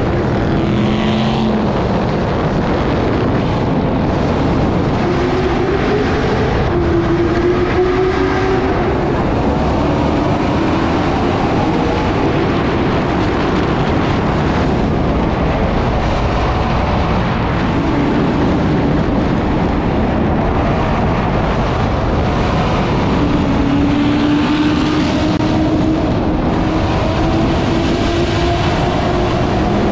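Car engine running under way through heavy road and wind noise, its pitch rising slowly at times as it accelerates.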